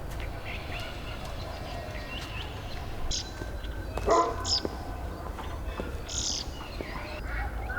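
Short bird calls, a few separate chirps, over a steady low rumble, with a knock about four seconds in.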